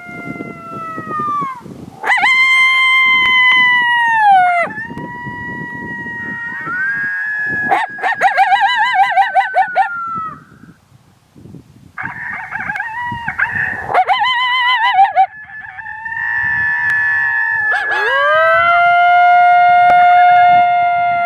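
Coyote howls blown on a mouth diaphragm call: long drawn-out howls that hold their pitch and then drop off at the end, with stretches of rapid quavering notes between them. Wind noise rumbles underneath.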